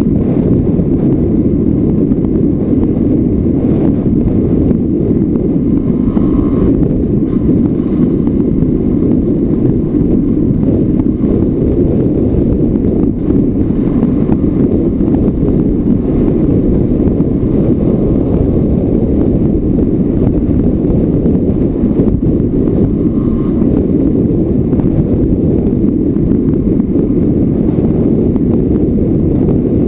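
Heavy wind rushing over the microphone of a moving off-road motorcycle, with the bike's Yamaha Lanza two-stroke single running underneath at a steady pace.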